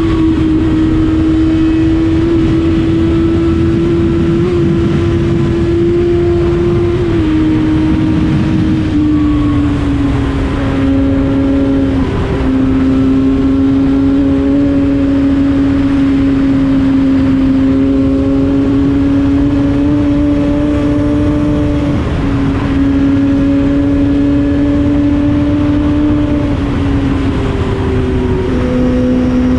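Yamaha FZ6 inline-four with an Akrapovic exhaust running at a steady cruise, heard from the bike while riding. Its note holds fairly even and drops in pitch in short steps several times, over a low wind and road rumble.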